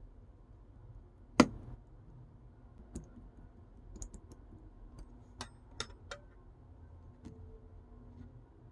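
Mixed pink and blue slime being handled, giving scattered sharp clicks and pops, with one loud click about a second and a half in.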